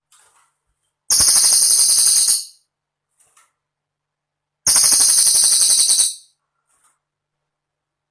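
Cililin bird singing: two very fast, high, buzzing trills, each about a second and a half long, about two seconds apart.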